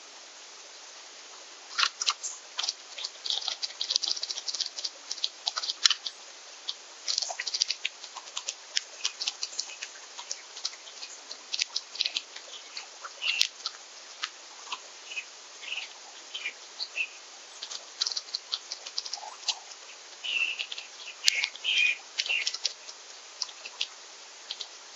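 Rapid, irregular clicking and tapping of seeds being pecked and cracked at a backyard bird feeder, with a few short high notes, over a steady light hiss.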